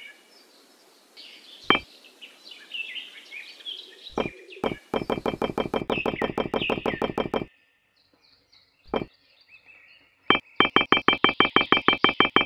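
Birds chirping, with scattered sharp clicks of miniature clay bricks being handled and set down. Twice a run of rapid, even clicking, about five a second, starts up: once just before halfway, stopping a little after halfway, and again near the end.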